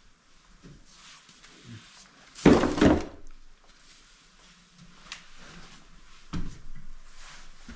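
Knocks and thumps of hands-on repair work in a small room: one loud thump about two and a half seconds in, fainter knocks after it, and a second thump later on.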